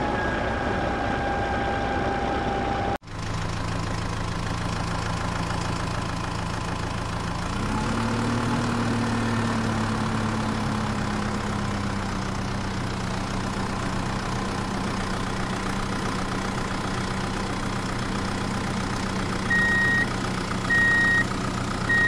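Tractor engine idling, with a brief break about three seconds in and a slight rise in revs about seven seconds in before it settles back. Three short reversing beeps sound near the end.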